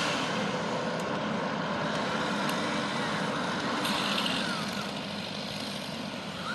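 Engines of tree-removal machinery running steadily, with a slightly louder stretch about four seconds in.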